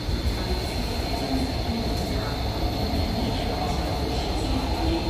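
An MTR East Rail Line electric train running through the station platform without stopping: a steady rumble of wheels and running gear, with a thin steady high whine over it.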